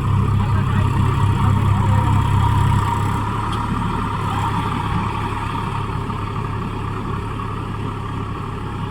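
Massey Ferguson 254 Dynatrack 4WD tractor's diesel engine running steadily, easing slightly lower in level about three seconds in.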